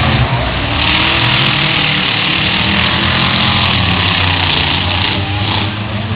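Truck engine running steadily under a loud, continuous rushing noise.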